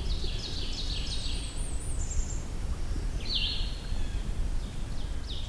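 Blackburnian warbler singing a variant song: a quick run of very high, thin notes that ends in a still higher trill, with another high downslurred note about three seconds in. A steady faint forest hiss lies underneath.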